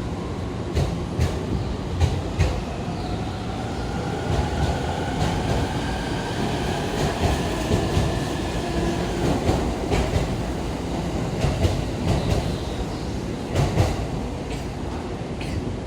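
An electric commuter train pulls out of the platform: its wheels rumble and click over the rail joints, and the traction motors give a whine that rises in pitch and then fades out.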